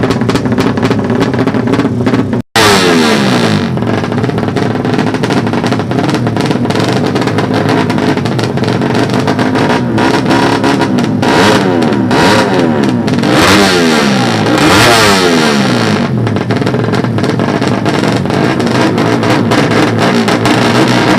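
Four-stroke underbone drag bike engines revving hard, the pitch climbing and dropping again and again as they run up through the gears, with overlapping rises and falls. The sound drops out briefly about two and a half seconds in.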